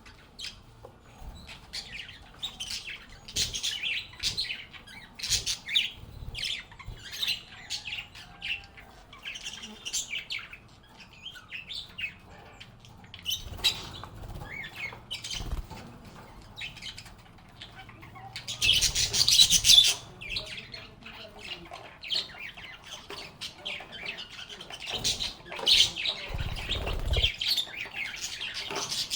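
Lovebirds chirping in many short, sharp calls throughout, with a loud, dense stretch of chatter about two-thirds of the way in. A few low thumps come near the end.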